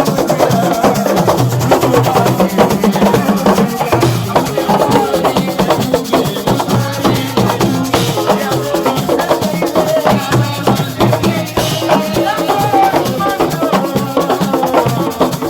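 Loud percussion music: many drums struck in a fast, dense rhythm, with voices singing or chanting over it.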